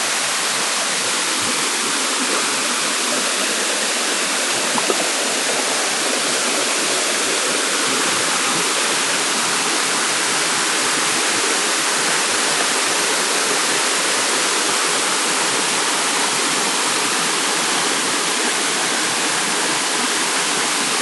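Waterfall pouring, a steady even rush of falling water heard close up.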